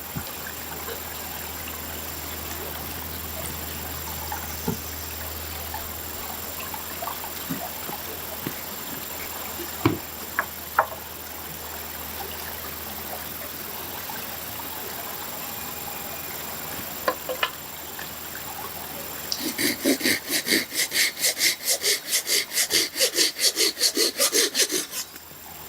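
Fast rhythmic back-and-forth scraping strokes, about four a second, start about three quarters of the way in and run for several seconds. Before them, a low steady background with scattered light knocks and taps.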